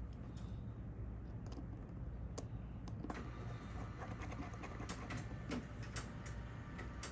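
Scattered small clicks and taps of tools and parts being handled on a smartphone under repair, coming more often after about three seconds, over a steady low hum.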